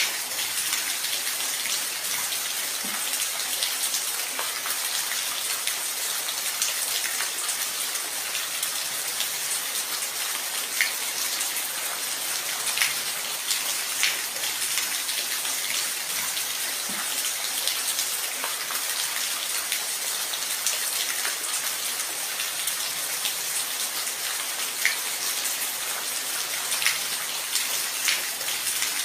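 Steady rain with close, distinct drops ticking on a surface now and then.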